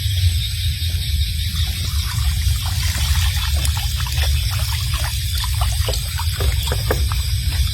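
Water trickling and splashing in shallow water, with a run of short splashes from about three seconds in, over a steady low rumble and a high hiss.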